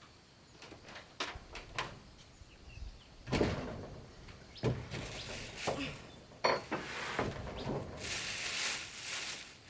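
Irregular knocks and clatter of wooden pieces being handled and set down, growing busier after about three seconds, with a stretch of rustling and scraping near the end.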